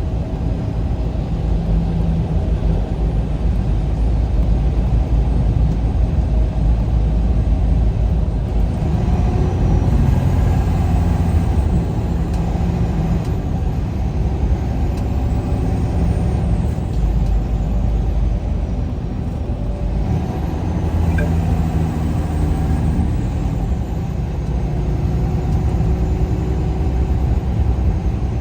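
Vehicle driving on the highway: a steady low engine and road rumble, with the engine note shifting up and down a few times.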